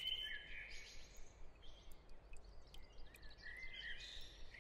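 Faint wetland ambience with birds calling: a bout of high chirps at the start and another about three seconds in.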